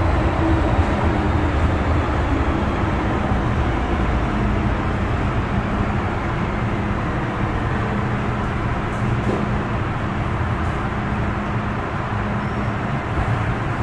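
MTR M-Train electric multiple unit running, heard from on board: a steady rumble of wheels on rail with a constant low hum, easing a little in level toward the end.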